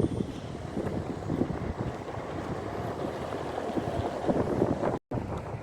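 Wind buffeting the microphone, a gusty low rumble, with the sound cutting out for an instant near the end.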